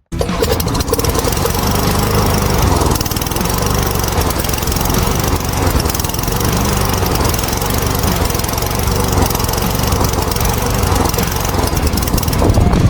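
Stihl FS36 string trimmer's small two-stroke engine running loudly, cutting in suddenly at the start, its pitch rising and falling a little as it runs.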